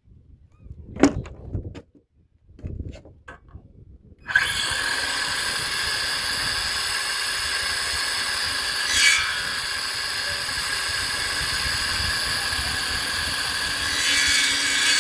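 A few knocks of wood being handled, then about four seconds in a power saw starts and runs steadily as it cuts through a wooden board, briefly louder about nine seconds in.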